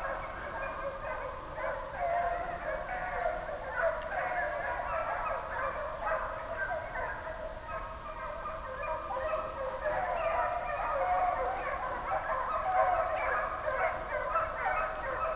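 A pack of deer hounds baying together while running a deer's trail, many voices overlapping without a break.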